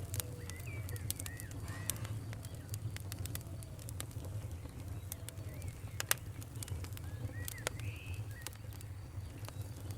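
Wood campfire crackling and popping, with one sharper pop about six seconds in, over a steady low rumble. Birds chirp now and then in the background.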